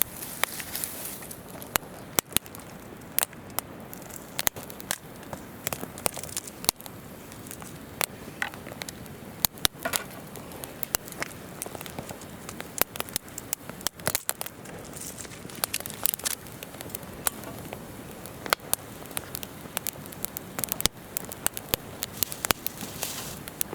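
Wood campfire crackling, with frequent irregular sharp pops and snaps, over the steady rush of a river flowing nearby.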